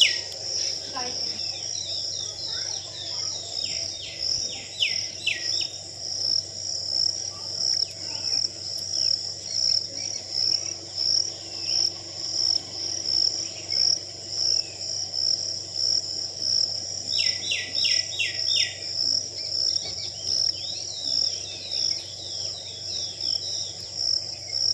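Insects chirping in a steady, even high-pitched pulse, with birds calling over it; twice a bird gives a quick run of about five falling notes.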